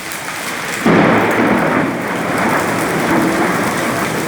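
Heavy rain and hail falling steadily. About a second in, a loud thunderclap breaks out close by and rumbles on, slowly fading.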